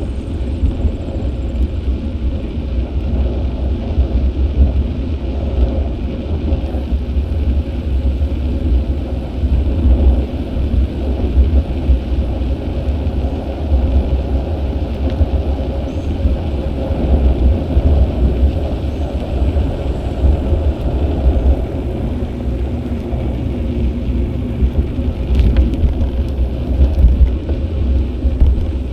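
Wind buffeting the microphone of an action camera on a moving bicycle: a constant low rumble that swells and dips, with road noise under it.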